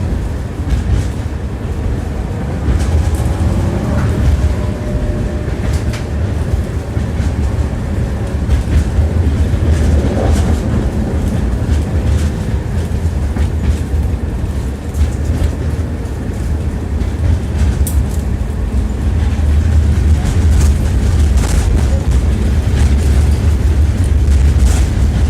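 Tram running along its track, heard from inside the car: a steady heavy rumble with the ringing clatter of the wheels and scattered sharp clicks over the rail joints. A faint whine rises and falls a few seconds in and again about ten seconds in.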